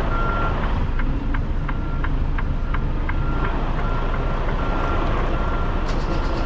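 Heavy diesel truck running low while reversing, its backup alarm giving a steady single-pitch beep a little under once a second. A regular ticking joins about a second in.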